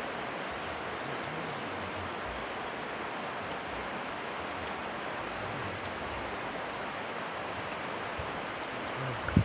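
Steady rushing noise with no pitch, even and unchanging throughout, with a single short thump near the end.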